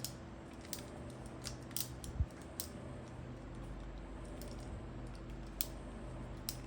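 Scattered small clicks and creaks of a replacement extension-cord plug being worked by hand, its screws being tightened down hard.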